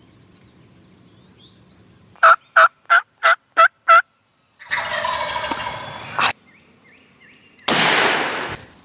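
Wild turkey calling: a run of six evenly spaced yelps, then a rattling gobble. Near the end comes a sudden loud noisy blast that fades over about a second.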